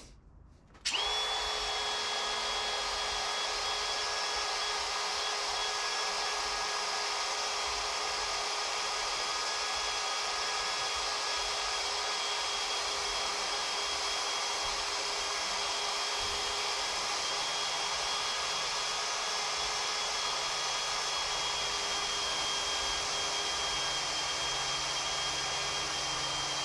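Power drill running steadily at one speed, spinning a stripping attachment against the skid steer's panel to take off old decals and paint. It starts about a second in and keeps a constant whine.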